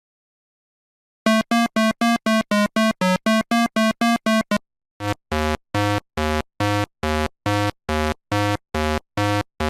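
Electronic synthesizer notes: a quick run of about thirteen short, evenly spaced notes, about four a second, then after a brief pause a slower run of about ten longer, lower notes, about two a second.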